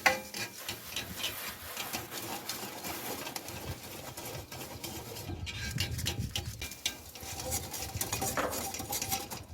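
Clinks, knocks and clatter of pots and cooking utensils being handled while a cauldron of fish porridge is readied, with a sharp knock right at the start and a busier spell of knocking about five to seven seconds in.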